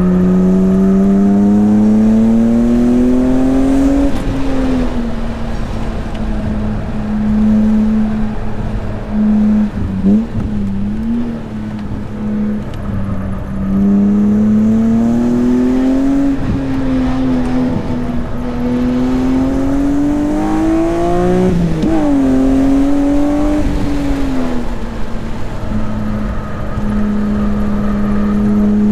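BMW S54 3.2-litre inline-six in an E36 M3 under hard acceleration on track, its pitch climbing steadily through several pulls, holding nearly steady between them, with sharp breaks in the note about ten seconds in and again near twenty-two seconds as the revs drop and pick up again.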